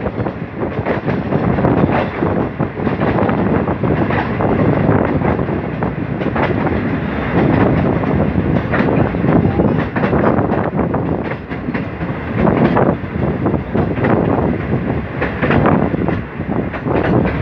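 Pakistan Railways express passenger coach running on the rails as the train pulls into a station, heard from the coach's open doorway: a steady rumble of wheels with irregular clickety-clack over rail joints.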